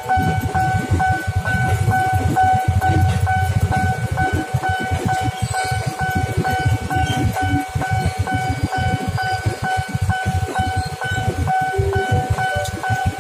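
KRL electric commuter train running past through a level crossing, its wheels clattering and rumbling steadily. Over it the crossing's warning bell rings on and on in even, repeated strokes.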